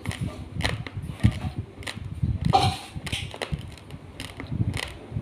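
Raw long-grain rice being chewed: irregular sharp crunches of the hard, dry grains breaking between the teeth, over dull chewing thuds, with a brief louder, noisier sound about two and a half seconds in.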